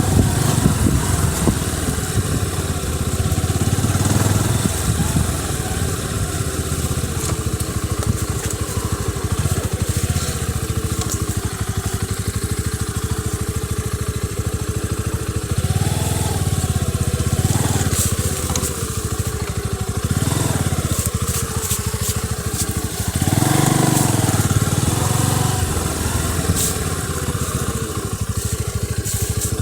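Bajaj Boxer motorcycle's single-cylinder four-stroke engine running steadily under way. The engine note rises and falls with the throttle several times in the second half.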